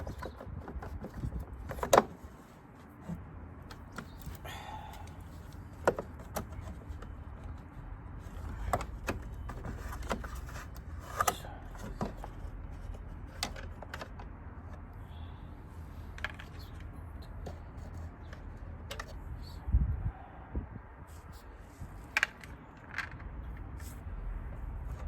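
Scattered sharp clicks and knocks of hard objects being handled, a dozen or so at uneven intervals, over a low steady rumble.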